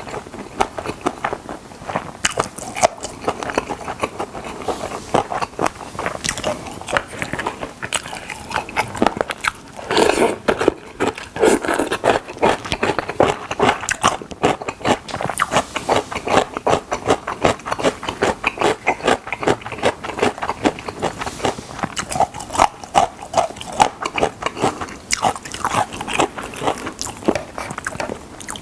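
Close-miked eating of chicken drumsticks: continuous biting and chewing, with rapid, wet mouth clicks and smacks.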